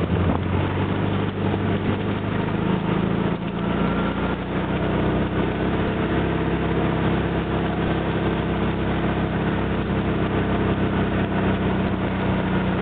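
A vehicle's engine running steadily as it pulls up a steep hill, heard from on board the vehicle.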